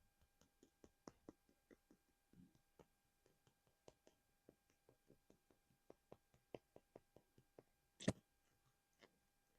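Faint, quick tapping on small plastic collectibles, a string of light clicks at about two to three a second, with one louder knock about eight seconds in.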